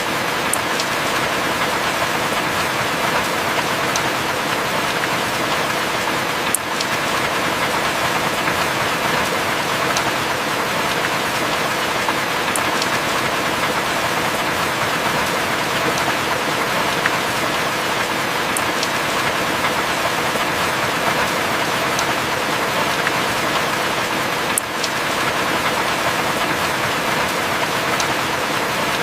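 Heavy rain falling steadily: a dense, even hiss with a few scattered sharp drip ticks.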